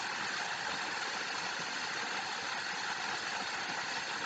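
Steady rushing of falling water, an even waterfall hiss with no change in level.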